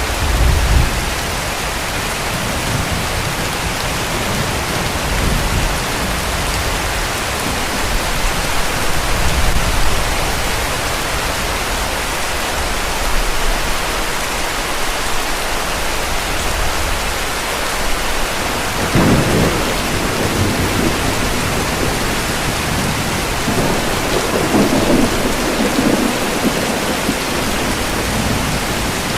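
Steady heavy rain with low rumbles of distant thunder that come and go several times, the strongest about two-thirds of the way through.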